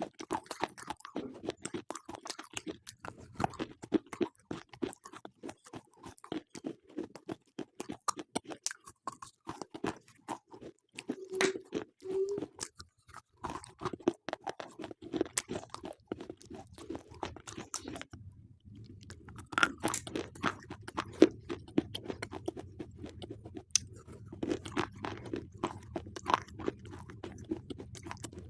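Slate pencils being bitten and chewed, a rapid run of crisp crunching cracks that stops briefly about eighteen seconds in, then carries on.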